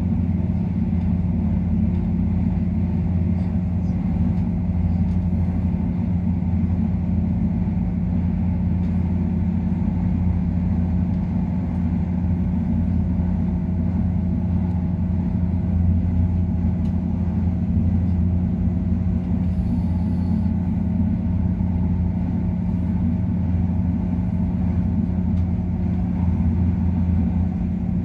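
MTR Airport Express CAF-built electric train running at speed, heard from inside the passenger cabin: a steady low rumble of the wheels on the track with a faint constant hum.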